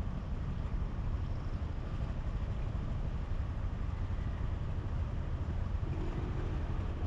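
Steady rumble of a motorbike riding in city traffic, its engine running under heavy road and wind noise. A faint steady hum joins near the end.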